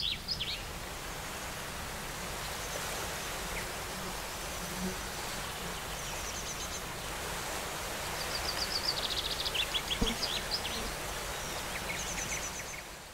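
Outdoor ambience: a steady even hiss with small birds chirping in short high trills now and then, busiest a little past the middle. A single sharp knock sounds about ten seconds in.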